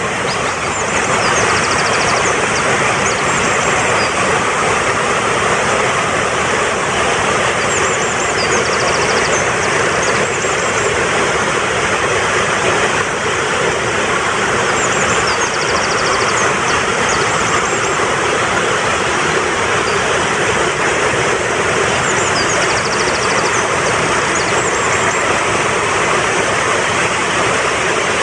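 Fast-flowing mountain stream rushing steadily. A high, rapid bird trill comes three times, about seven seconds apart.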